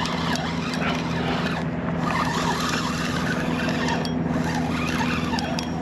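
A steady low motor hum under an even hiss of wind and water, with a few faint ticks.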